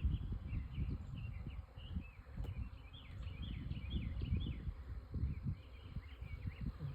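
Birds chirping in the background, many short quick notes again and again, over a low uneven rumble.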